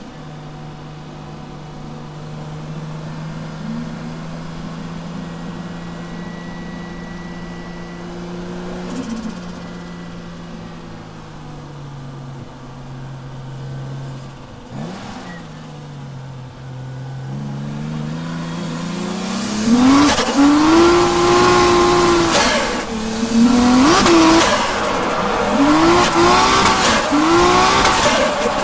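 Toyota JZX100 Tourer V's turbocharged 1JZ-GTE straight-six, heard from inside the cabin. It runs at a steady low engine speed for most of the first two-thirds, then winds up and revs hard with quick rises and falls as the car drifts, with tyre squeal.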